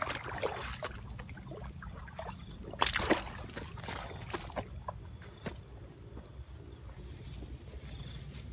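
Water sloshing and splashing, with a couple of louder splashes about three seconds in, over a steady high-pitched insect drone.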